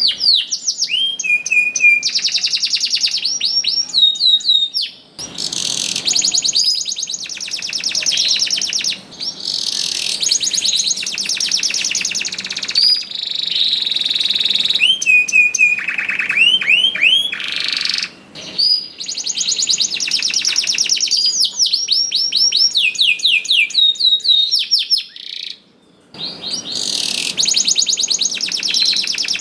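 Domestic canary singing a long, continuous song of fast trills, rapid rising and falling note series and buzzing rolls, with only brief pauses for breath. This is the full-on song of a male in top singing form.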